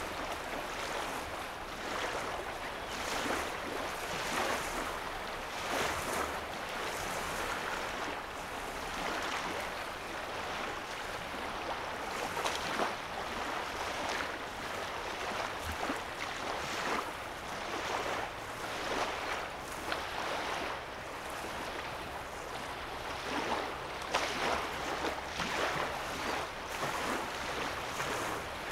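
Small waves lapping on a lake shoreline, a soft wash or splash coming irregularly every second or two.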